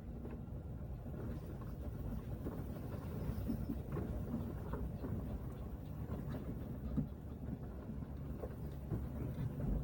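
Car driving along a forest road: a steady low rumble of tyres and engine, with scattered knocks and thumps from the bumps, the sharpest about seven seconds in.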